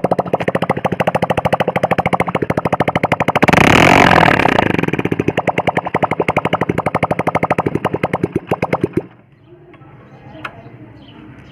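Yamaha RX100 two-stroke single-cylinder engine running through an old Hero Splendor silencer, with a steady rapid exhaust beat. It is revved briefly about a third of the way in. The engine sound stops abruptly near the end.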